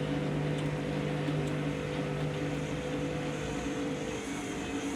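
Washing machine running with a steady motor and drum hum that dies away about three and a half seconds in, as the machine winds down between spin attempts on a load that is out of balance.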